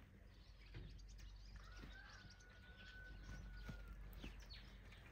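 Near silence with faint bird chirps, and a thin, steady high whistle lasting about two seconds from just before the middle.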